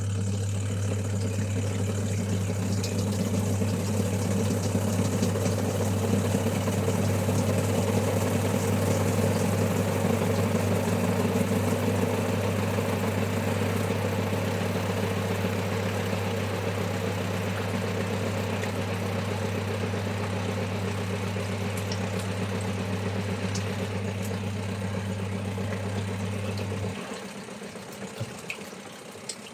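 Steady electric motor hum that runs unchanged, then cuts off suddenly about 27 seconds in, leaving a quieter background with a few faint clicks.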